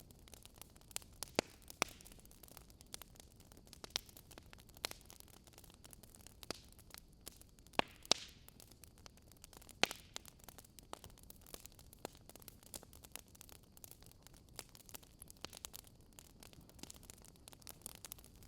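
Wood campfire crackling: irregular sharp pops and snaps of burning wood over a soft, steady hiss, with the loudest couple of pops about halfway through.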